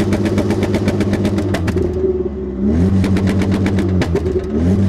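Ute engine held against a spark-cut rev limiter: the revs sit at a steady pitch while the exhaust crackles and pops in rapid strings. Twice the revs dip and climb back up to the limiter.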